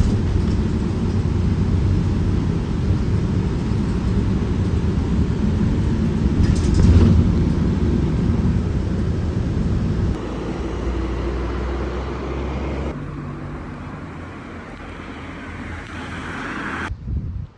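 A vehicle's steady rumble and travel noise, which changes and gets quieter about ten seconds in and again about thirteen seconds in.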